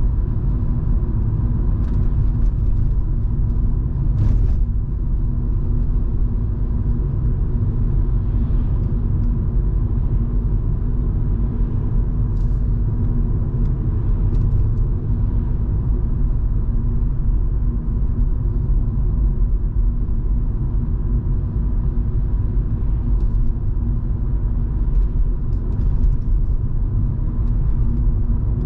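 Volvo V70 2.5T's turbocharged five-cylinder engine and road noise at a steady cruise: a continuous low rumble with a steady engine drone.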